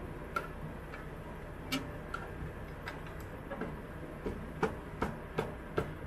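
A series of sharp light clicks, a few scattered at first, then coming about two to three a second in the second half, over a steady low hum.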